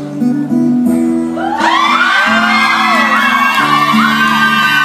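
Instrumental music, the song's intro on guitar: held low chord notes, and from about a second and a half in, a high lead line sliding up and down above them.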